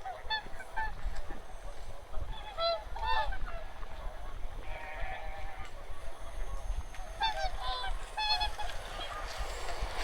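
A flock of wild waterfowl honking, in several bouts of overlapping short calls with brief lulls between them.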